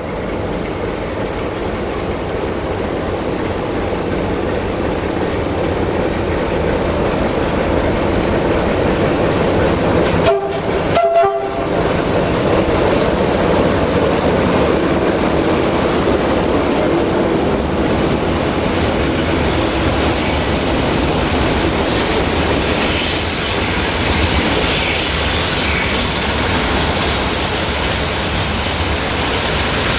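A train running through the station close by, a steady loud rumble of wheels on the rails that builds over the first few seconds. A thin, high-pitched wheel squeal comes in about three-quarters of the way through.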